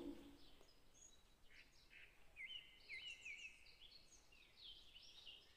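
Near silence, with faint bird chirps in the background: a string of short, quick high notes starting about a second and a half in.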